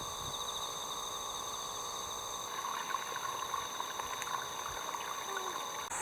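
Steady high-pitched insect chorus droning on several pitches, with scattered faint clicks and rustles from about halfway through.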